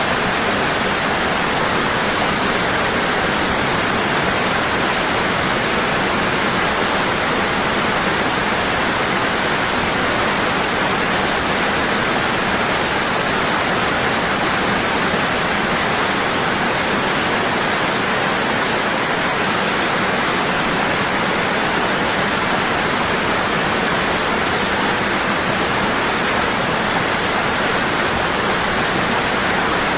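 Waterfall falling strongly and constantly: a steady, even rush of water with no breaks or changes.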